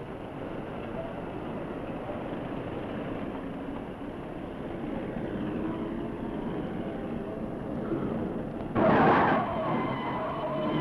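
An early motor car's engine running steadily, with a sudden, much louder burst of noise lasting about half a second around nine seconds in.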